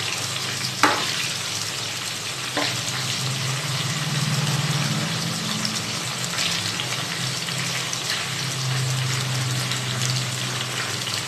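Marinated boneless chicken pieces frying in hot oil over a low flame, a steady sizzle. Two short knocks, about one and two and a half seconds in.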